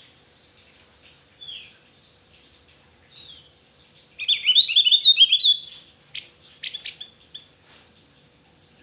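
Javan grey-throated white-eye (opior jawa) singing. A few single slurred chirps come first. About four seconds in there is a fast twittering burst lasting nearly two seconds, the loudest part, followed by several short sharp notes.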